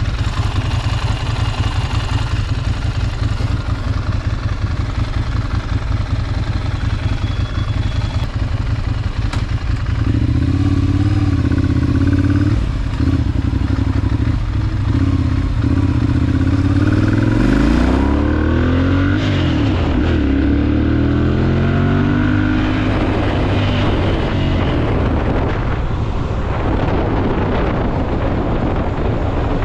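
Ducati Monster 796's air-cooled L-twin engine ticks over with a low, uneven rumble, then settles into a clear steady note about ten seconds in. From about halfway its pitch rises and falls several times as the bike accelerates through the gears, and wind noise builds toward the end.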